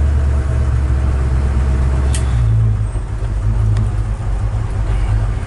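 Chevy 383 stroker small-block V8 idling steadily through side pipes. There is a faint click about two seconds in, and the idle note shifts slightly just after.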